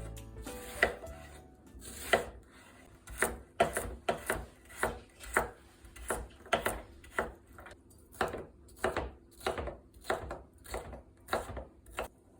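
Knife chopping food on a cutting board, steady strokes at about two a second. Soft background music fades out in the first second or so.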